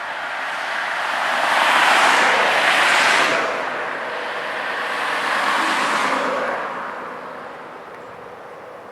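Two cars passing by on a nearby road, tyre and road noise swelling and fading, the first louder, about two to three seconds in, the second around six seconds in.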